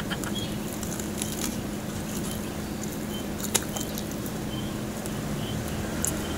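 Close-miked eating sounds: chewing and picking at crispy fried pork knuckle, with a few short sharp crackles, over a steady low hum.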